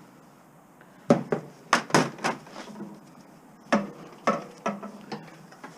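Pieces of scrap metal knocking and clattering as they are handled and set down: a quick run of five sharp knocks, a pause, then four more.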